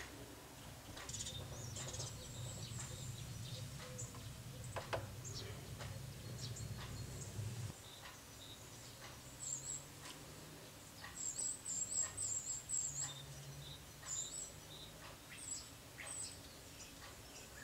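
Irregular sharp taps, typical of a Syrian woodpecker pecking at a window pane. From about nine seconds in come short clusters of high-pitched bird chirps. A low rumble runs under the first half and stops about eight seconds in.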